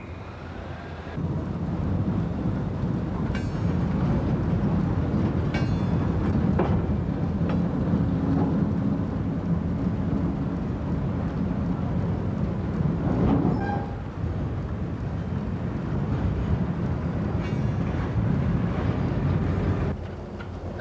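Train running along the track, a steady rumble with a few faint clicks.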